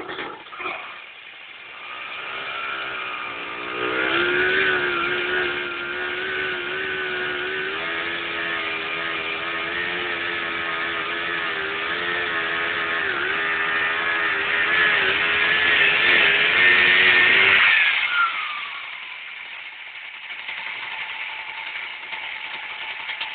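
Vyatka scooter's single-cylinder two-stroke engine, driving a homemade winch, catches just after the start and runs at raised revs that waver and climb. About eighteen seconds in, the revs fall away with a dropping whine and it settles to a quieter idle.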